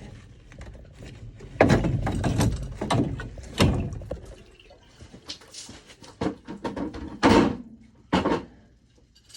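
Irregular knocks, thuds and clatter of tools and pipe being handled during plumbing repair work, with a few louder bangs.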